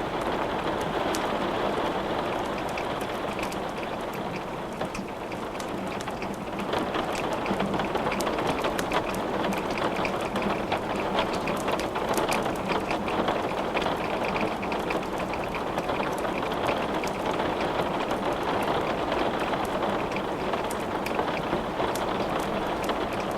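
Steady rain falling, with many scattered sharp crackles and pops from wood burning in a fireplace.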